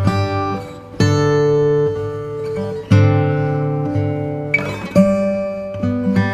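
Background music: strummed acoustic guitar, with a new chord struck about every one to two seconds.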